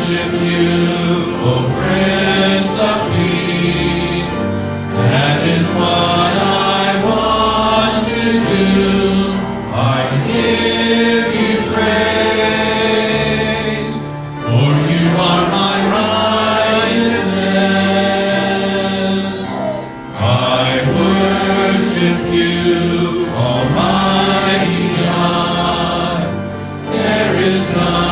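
Church singing: voices sing a slow hymn with accompaniment, in long held phrases with short breaks between them.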